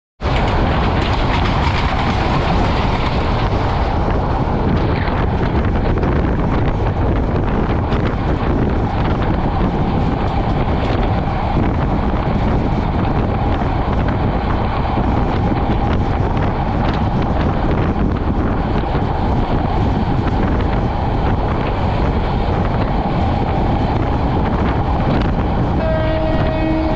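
Train running at speed: a steady, loud rumble and rattle of wheels on the rails. About a second before the end, a train horn starts to sound.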